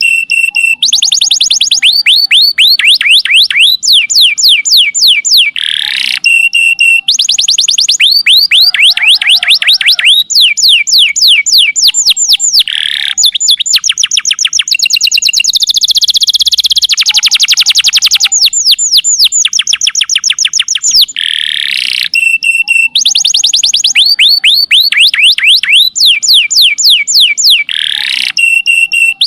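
Domestic canary singing its long "nembak" song: high, rapid trills of quickly falling notes, phrase after phrase with brief breaks, mixed with short steady whistled tones. This is the kind of recording played as a song model for training other songbirds.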